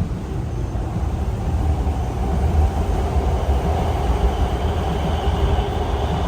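Hankyu Kyoto Line electric train heard from inside the car as it gets under way. There is a steady low rumble, and a motor whine comes in about a second in and grows louder.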